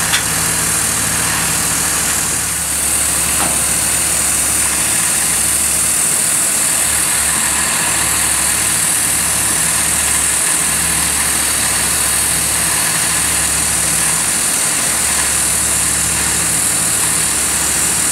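An engine idling steadily, with a constant high hiss over its low hum.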